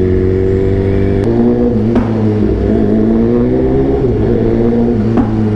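Superbike engine running at low speed with a very loud exhaust note, the pitch stepping and sliding up and down a few times with the throttle.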